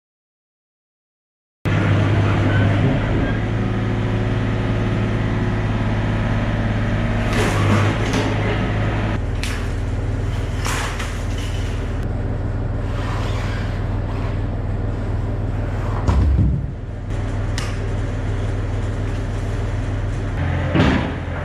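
Yanmar excavator's diesel engine running steadily, with a few sharp knocks over it; the engine note steps down a little about nine seconds in.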